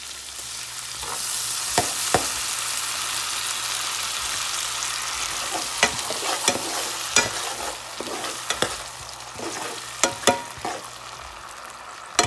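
Melting butter sizzling in a pot of sautéing onions, green onions and bell peppers, the sizzle swelling about a second in as the fresh butter heats. A spatula scrapes and knocks against the pot every second or so while stirring.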